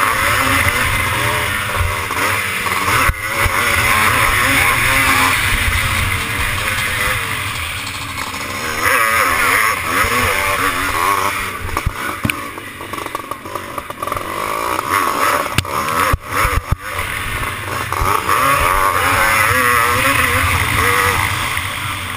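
Classic twinshock motocross bike's engine revving hard and easing off again and again as it races, with a steady rush of noise over it. A few sharp knocks come about three seconds in and again around sixteen seconds.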